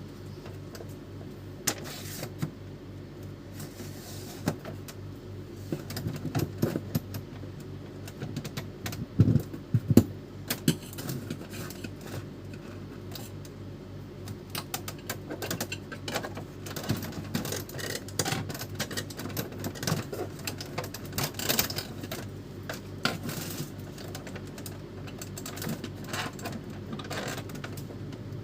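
Irregular plastic clicks and knocks from hands-on work on an Epson L310 inkjet printer, with a few louder knocks about a third of the way in, over a steady low hum.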